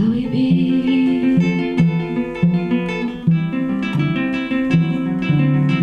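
Acoustic guitar playing a quick plucked and strummed accompaniment, many notes a second. At the start a voice holds the last sung word of a line.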